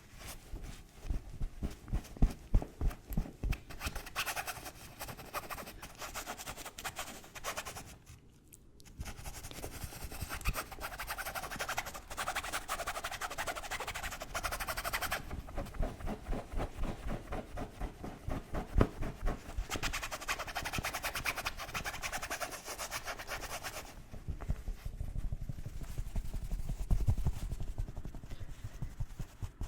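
Fast, aggressive scratching and tapping on objects. Rapid low tapping and knocking come at the start and again near the end, with long stretches of scratching in between and a short pause about eight seconds in.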